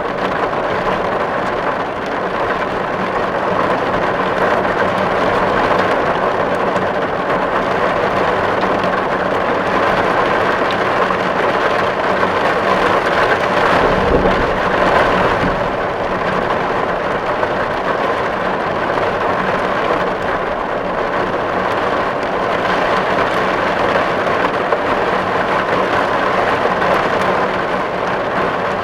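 Steady rain falling on a tin roof, a dense, even patter of drops on the metal, with a brief low rumble about halfway through.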